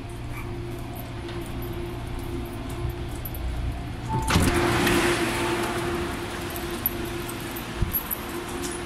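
Steady hum of an MTR Airport Express A-Train standing at the platform with its doors open. About four seconds in a louder rush of air noise rises suddenly and then fades, where the open doorway gives onto the platform.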